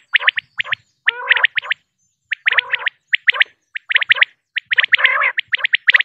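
Common quail calling: quick, sharp chirps in groups of three or four, the groups repeating about once a second.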